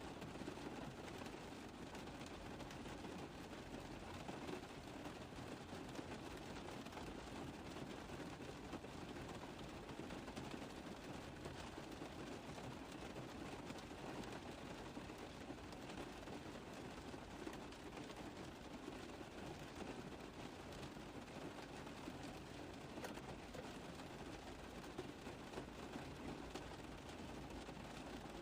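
Steady rain falling on a car roof, many small drop impacts blending into an even hiss.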